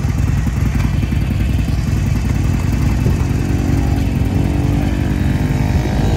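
Motorcycle engine running with a rapid, even firing pulse; about halfway through, a steadier pitched note joins it.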